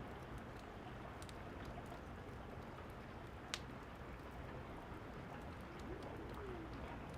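Steady rain hissing, with the scattered small pops of a crackling fire and one sharper pop about three and a half seconds in.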